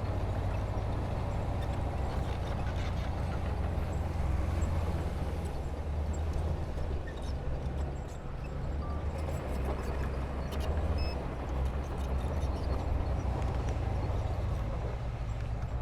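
Diesel engine of heavy earthmoving machinery running steadily with a deep rumble, easing off briefly about halfway, with scattered faint clicks and clanks.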